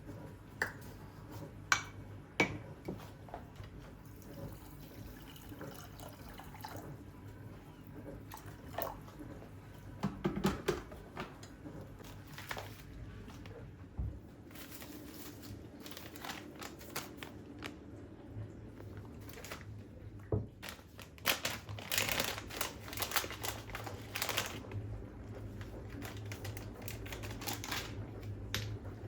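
Kitchen handling sounds: scattered clicks and knocks of dishes and utensils, with water running for a few seconds about three-quarters of the way through. A low steady hum sits underneath.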